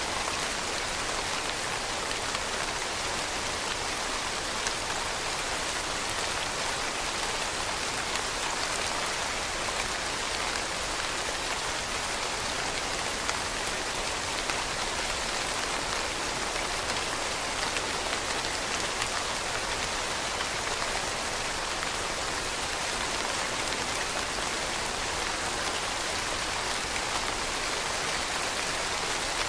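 Steady rain falling on leaves, an even hiss of many small drops with the odd louder drip.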